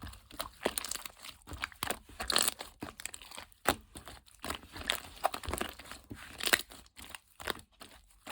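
Close-up handling sounds: crinkling and rustling with tearing and quick small taps and clicks, starting and stopping irregularly.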